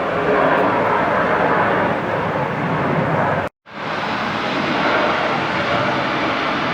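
Jet airliner engines, a loud steady rushing noise, broken by a sudden gap of silence about halfway through before the noise resumes.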